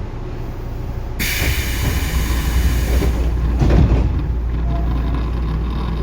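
Tobu 9050 series electric train running, with a steady low rumble of wheels on track. A loud hiss comes in about a second in and lasts about two seconds, and a heavier rumble swells near the four-second mark.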